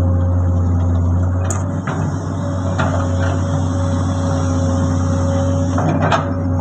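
Komatsu excavator's diesel engine running steadily under load, with a steady whine above the low engine hum and a few sharp knocks.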